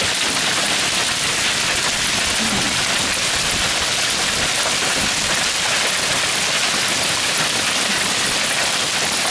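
Heavy hail coming down hard: a dense, steady rush of hailstones striking surfaces, without let-up.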